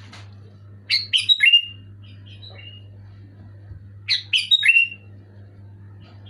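Sooty-headed bulbul calling in two loud bursts of quick, sharp, falling notes, one about a second in and one about four seconds in, with softer calls between them.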